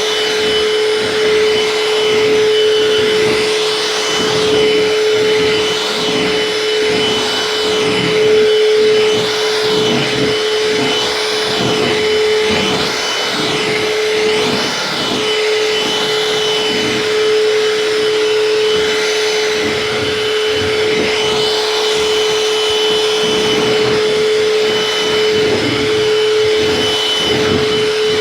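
Eureka SuperLite vacuum cleaner running steadily, with a constant motor whine over the rush of its suction. Its sound swells and dips slightly as it is worked over the floor.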